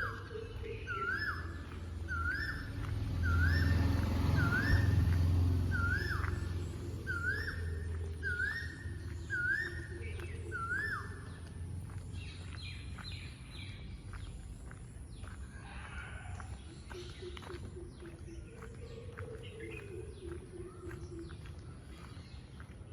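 Birds calling: one bird repeats a short call about once a second for the first ten seconds or so, then several birds give scattered quick high chirps. A low rumble swells and fades in the first few seconds.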